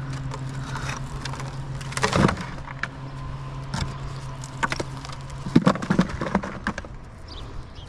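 Old chimney bricks being knocked loose and clattering: a handful of sharp knocks, the loudest about two seconds in and a cluster near six seconds. Under them a steady low hum runs and stops about five and a half seconds in.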